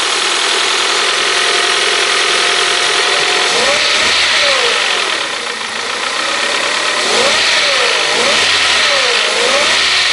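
Honda CR-V 2.0-litre four-cylinder petrol engine running after a crankshaft main-bearing repair, revved up and back down about four seconds in and then several times between about seven and nine and a half seconds. The engine is warming up, with no knock from the bottom end.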